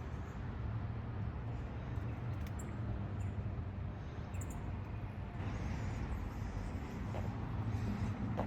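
Steady low hum of an engine running, over general street-traffic noise, with a few faint high chirps a few seconds in.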